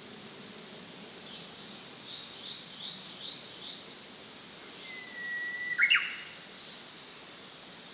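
Songbirds singing: a run of about eight quick high chirps, then a long steady whistle that ends in a loud, sharp flourish about six seconds in.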